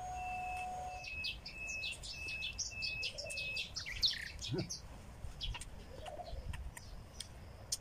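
Small birds chirping: a run of quick, evenly spaced high notes in the first few seconds, then scattered short chirps.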